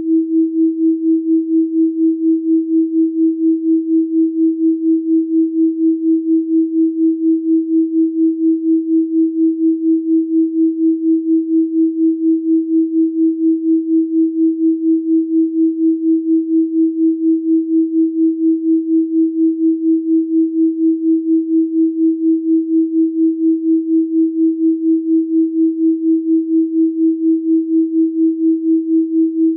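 Electronically generated pure sine tone held steady at 324 Hz, one unchanging pitch with a fast, even throb in loudness.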